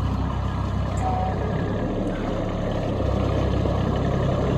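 Kubota B2601 compact tractor's three-cylinder diesel engine running steadily, growing slightly louder about three seconds in.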